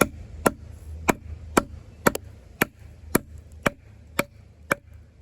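Off-Grid Caiman XXL bowie knife, a 7-inch D2 steel blade, being driven into a knotty piece of wood with sharp, even knocks about two a second.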